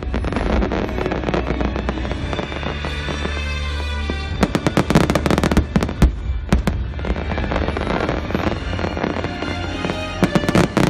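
Fireworks display: shells bursting in quick volleys of sharp bangs, densest about five seconds in and again near the end, with music playing underneath.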